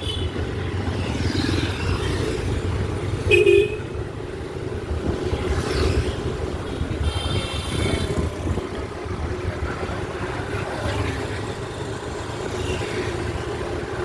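Road vehicle running in traffic, a steady low rumble, with a short horn toot about three and a half seconds in and another brief high-pitched toot around seven seconds.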